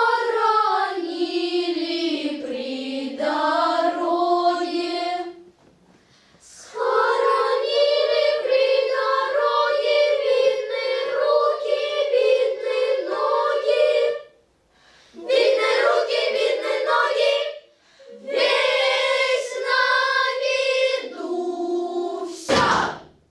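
A group of young voices singing a song without accompaniment, in four phrases separated by short pauses.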